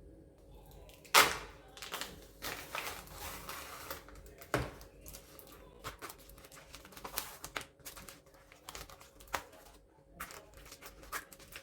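Rustling and crinkling with scattered clicks and knocks; a sharp knock about a second in is the loudest.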